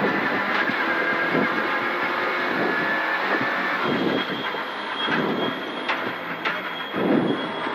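Renault Clio Rally4's engine heard from inside the cabin, running flat out at steady high revs for the first three and a half seconds or so, then coming off the throttle, its note breaking into rougher uneven pulses as the car slows for the next corner.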